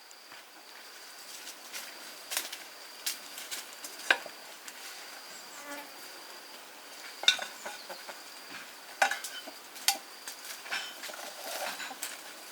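A steady, thin, high insect drone, with irregular sharp clicks and knocks from things being handled, about half a dozen of them spread through.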